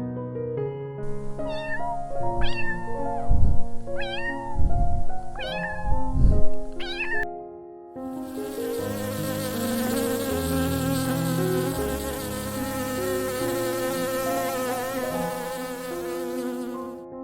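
Background music with four short animal calls that rise and fall in pitch, then a steady insect-like buzz for about nine seconds.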